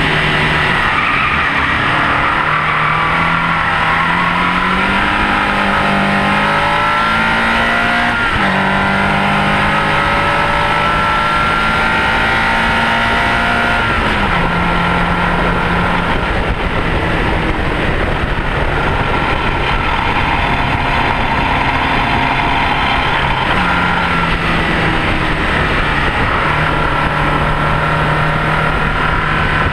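Mini's Rover K-series VVC four-cylinder engine driven hard on a racetrack, over constant tyre and wind roar. The revs climb, with a sudden pitch change about eight seconds in. The engine drops in pitch about halfway through, goes quiet under the road noise for several seconds, then pulls again near the end.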